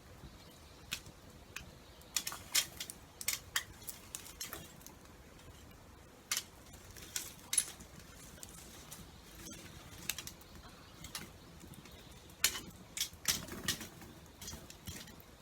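Campfire crackling: irregular sharp pops and cracks from burning wood, coming in clusters over a low steady hiss.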